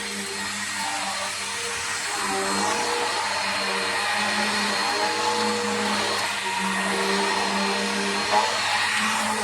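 Bissell Power Force vacuum cleaner running steadily, its motor hum swelling and fading slightly, with one brief sharp click about eight seconds in.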